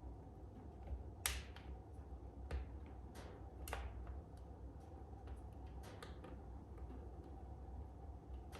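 Wood fire crackling in a fireplace: irregular sharp snaps and pops, the loudest about a second in, over a low steady rumble.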